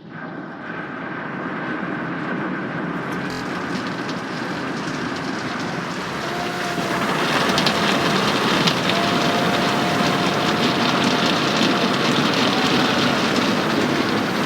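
Automatic car wash equipment working over the car, heard from inside the cabin: a loud rushing noise that starts suddenly, gets louder about seven seconds in, and carries a faint steady whine.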